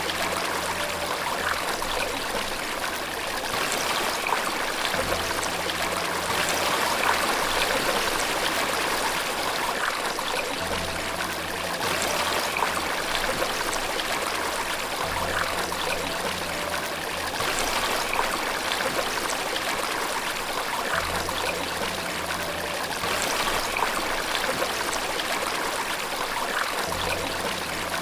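Steady rushing of flowing water, a stream or waterfall, with soft low held music notes beneath it that change every few seconds.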